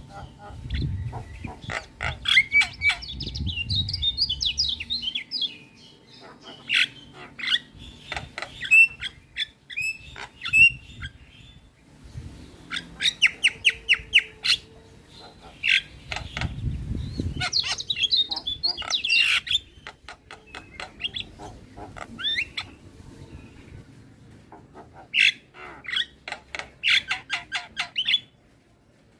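Javan mynas chattering and whistling: runs of rapid clicks and harsh squawks mixed with short gliding whistles, in bursts with brief gaps. A low rumble sits under the calls twice, near the start and about halfway through.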